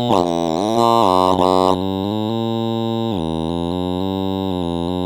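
Electronic music playing from the producer's session: synthesizer tones that glide up and down in pitch at first, then settle into held notes that step lower about three seconds in.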